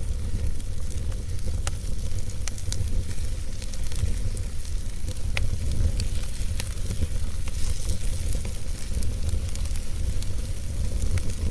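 Wood fire crackling in a fireplace: scattered sharp pops and snaps over a steady hiss and low rumble of the flames.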